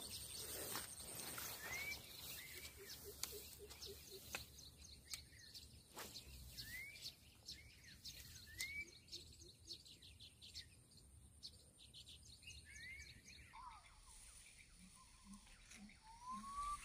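Faint outdoor ambience of a wetland edge, with a bird repeating short rising chirps every second or two. Short runs of lower, rapid notes come now and then, along with a few soft clicks.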